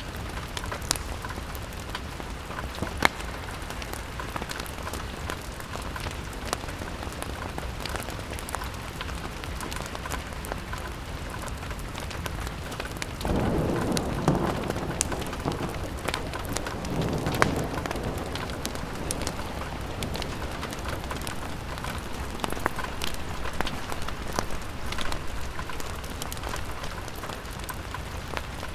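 Steady rain on a window pane, with scattered sharp ticks and pops through it. A low rumble swells for about five seconds around halfway through.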